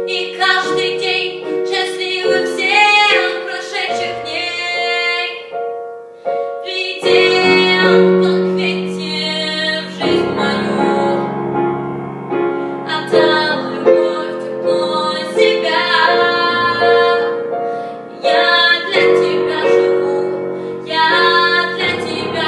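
Music: a woman singing a melody with piano accompaniment.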